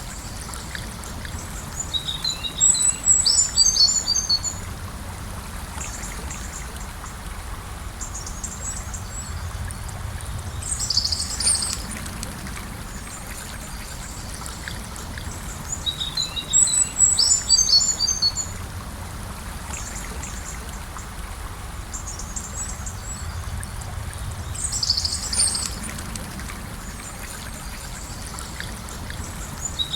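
Gentle river flowing in a steady, even rush of water, with a small songbird singing short bursts of high chirps every few seconds over it, about five phrases in all.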